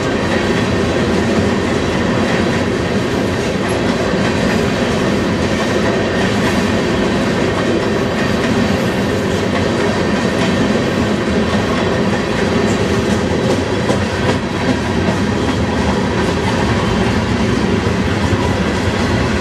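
Freight train passing close by, a long string of covered hoppers and open hoppers rolling steadily on steel wheels over the rails.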